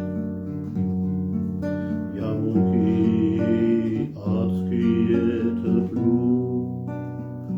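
Acoustic guitar strummed in a slow, gentle accompaniment to a Russian bard song.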